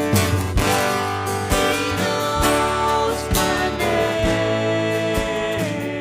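Worship band music: acoustic guitar strumming over a steady beat, with a held, sliding melody line.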